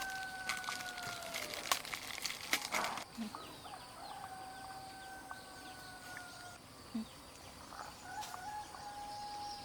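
Roosters crowing: one long drawn-out crow ending about a second and a half in, then two more long crows, one around the middle and one near the end. A few short knocks and rustles fall in the first three seconds.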